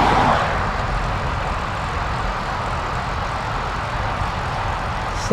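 Steady rush of wind and tyre noise picked up by a bike-mounted action camera while riding along a road, swelling briefly right at the start.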